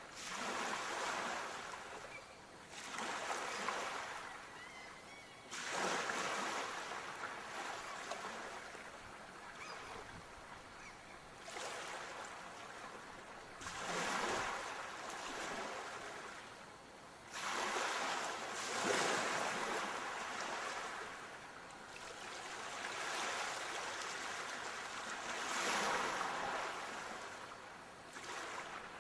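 Sea waves breaking and washing on a shore, a steady hiss that swells with each wave every few seconds and ebbs between them.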